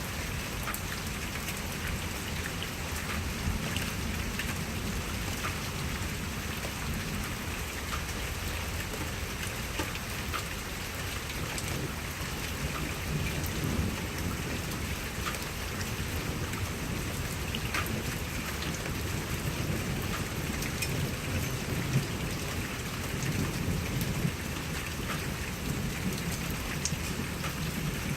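Steady rain with individual drops ticking close by, over a low rolling rumble of thunder that swells in the middle and again near the end.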